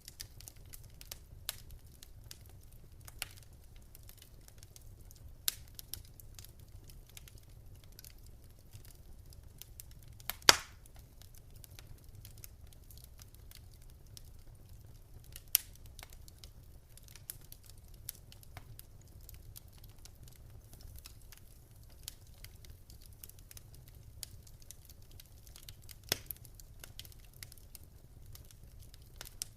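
Wood fire crackling in a fireplace: scattered sharp pops and snaps over a low steady rumble of the flames, with one loud pop about a third of the way in.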